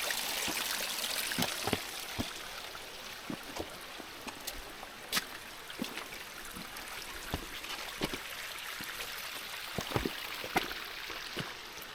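Steady rush of flowing water from a forest creek, with scattered footsteps on the muddy trail.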